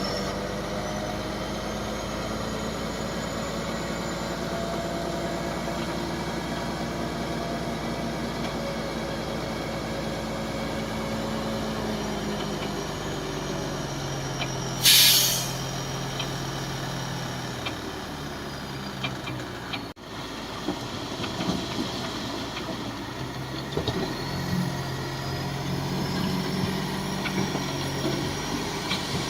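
Heavy diesel machinery engine running steadily, its pitch dropping a little partway through. A short loud hiss of air comes about halfway, and scattered clanks and knocks follow in the later part.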